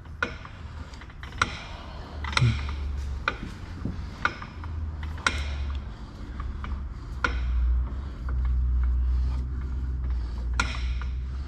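Irregular sharp metallic clicks and creaks, one every second or two, over a low steady rumble that grows louder in the second half, as the Mustang's rear axle is lowered.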